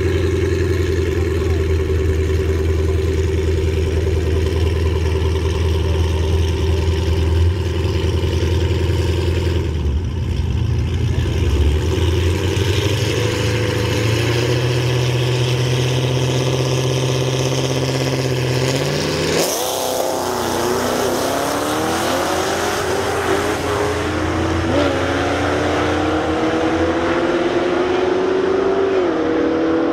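Drag-racing cars' engines running at the starting line, the revs held and then building slowly, before a hard launch about two-thirds of the way in. The engines then pull away down the track, climbing in pitch with drops at two gear changes.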